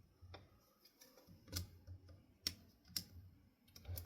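Faint clicks and light taps of hands and small tools working on a ceiling fan motor: about four sharp clicks spread out, with soft handling noise between them.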